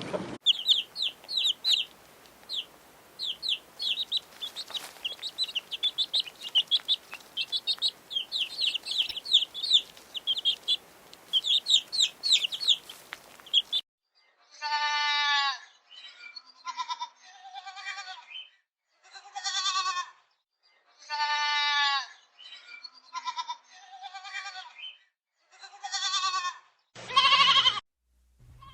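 Chicks peeping: rapid, high, short chirps, many overlapping. About halfway through they give way to young goats bleating: separate wavering calls of about a second each, some falling in pitch.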